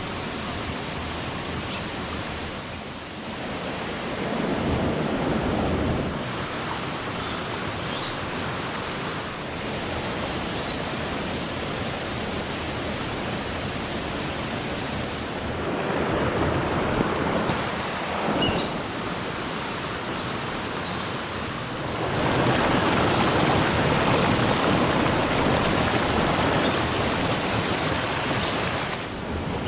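Steady rushing of a forest stream and waterfall, swelling louder a few times and most of all for the last several seconds.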